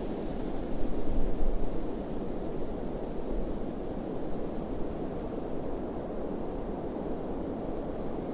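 Steady wind rushing, with a stronger gust buffeting the microphone about a second in.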